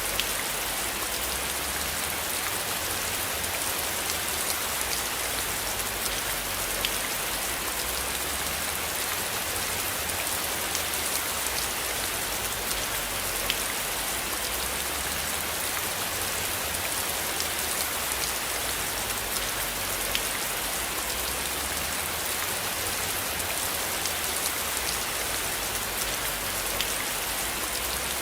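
Steady rain falling, an even hiss with scattered single drops ticking through it, over a low rumble underneath.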